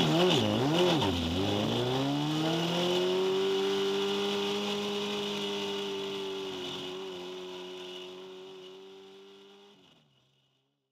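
Drift car's engine heard from inside the cabin, blipped up and down in revs two or three times, then settling into a steady idle that fades away near the end.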